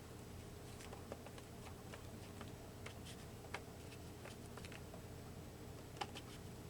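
Quiet room with a few faint, scattered ticks and taps of small craft supplies being handled on a desk.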